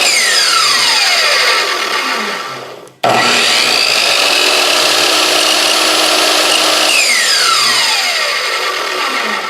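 Chicago Electric 10-inch sliding miter saw motor spinning down with a falling whine as its electronic brake stops the blade. It starts again suddenly about three seconds in, runs steadily for about four seconds, then brakes to a stop with a second falling whine near the end.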